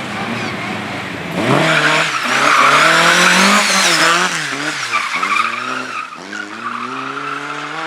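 Race car engine revving hard, its pitch rising and dropping several times as the throttle is worked, with tyres squealing and skidding, loudest from about a second and a half to four seconds in.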